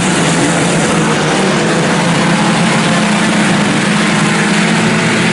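Several IMCA Sport Compact race cars' four-cylinder engines running hard together under racing, a loud, steady sound of many engines at once.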